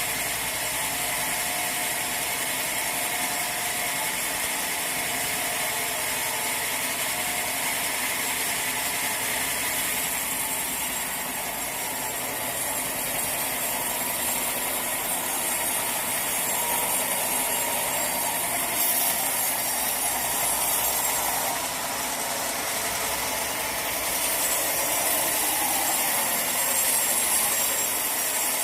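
Sawmill machinery running steadily: a continuous mechanical noise with a bright hiss and a few steady tones, growing a little louder in the second half.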